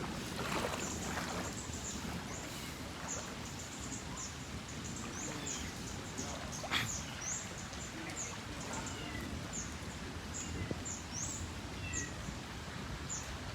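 Small birds chirping again and again in short, high calls over a steady outdoor background noise.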